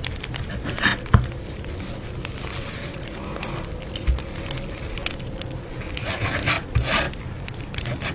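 Campfire crackling, with many sharp pops and snaps over a low rumble and a few louder swells around six to seven seconds in.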